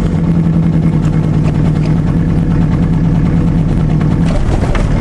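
Chevrolet Cavalier engine idling steadily just after a start on a newly fitted salvaged starter, with a brief change in its note near the end.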